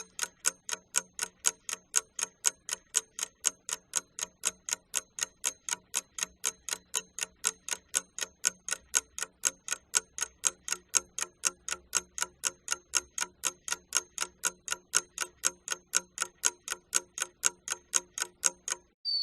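Rapid, even ticking, about three to four ticks a second, each tick with a faint ringing pitch; it stops abruptly near the end.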